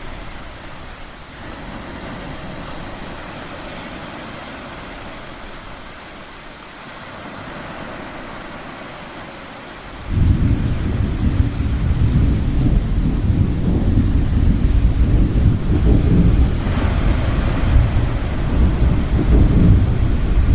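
Steady rushing wash of ocean surf, then about halfway through a loud, low rumble of thunder comes in suddenly and rolls on without a break.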